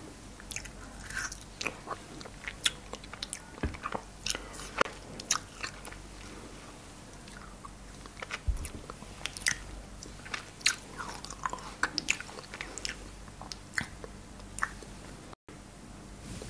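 Close-miked biting and chewing of frozen cherries: clusters of sharp, crisp crunches and clicks, easing off for a couple of seconds in the middle.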